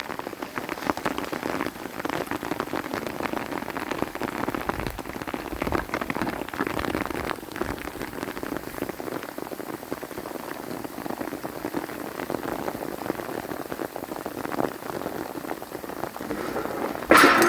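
Steady rain falling, a dense patter of many small drops. A brief louder clatter comes just before the end.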